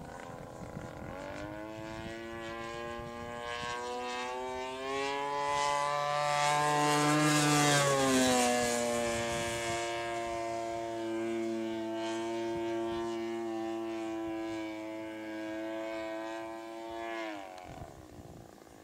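Propeller aircraft powered by a two-stroke chainsaw engine flying past at steady throttle. Its engine note rises and grows loudest about seven seconds in, then drops in pitch as it goes by. About a second before the end the note falls away and fades.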